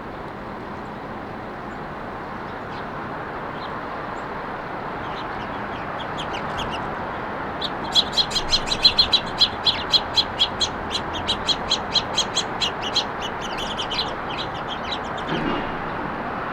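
A bird calling a fast run of sharp, harsh chirps, about four a second for some six seconds, starting about halfway in. Underneath is a steady hum of road traffic.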